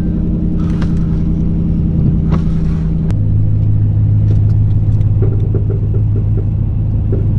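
Truck engine running steadily as a pickup is pulled up onto a flatbed tow truck; the engine note drops to a lower, stronger hum about three seconds in, with a few light clicks after it.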